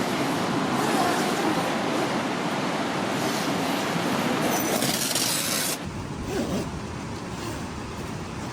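Strong seaside wind blowing, a steady rushing noise that drops suddenly to a quieter level about six seconds in.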